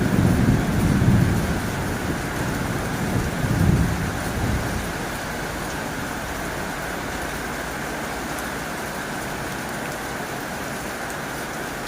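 Heavy rain drumming steadily on a tin roof. A low rumble swells twice in the first few seconds, then dies away.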